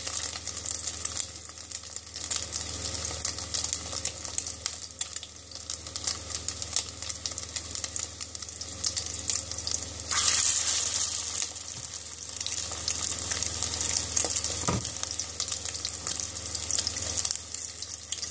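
Chicken tikki patty sizzling in hot oil as it shallow-fries: a steady hiss of fine crackling pops that grows louder for a moment about ten seconds in.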